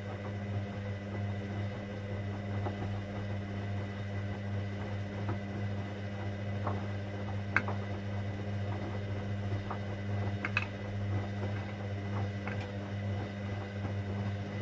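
Hoover Dynamic Next washing machine running on a cotton 60 programme: a steady electric hum with scattered light clicks, which stops abruptly near the end.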